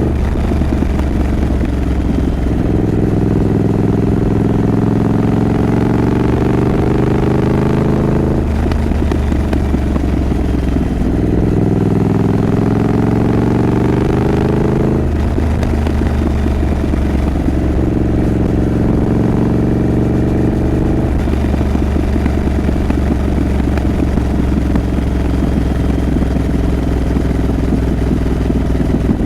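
Triumph Scrambler 900's parallel-twin engine under way, its pitch slowly climbing and then dropping at gear shifts about a third and about halfway through, then running at a steadier pitch.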